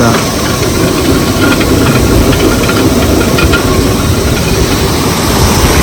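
A traditional water-powered grain mill (ghatta) running: a steady loud rush of water from its chute driving the wheel, with a low rumble underneath.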